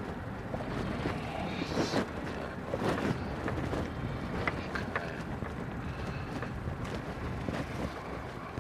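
Mitsubishi Pajero driving slowly: a steady low engine and tyre rumble, with a few light knocks and rattles from the vehicle.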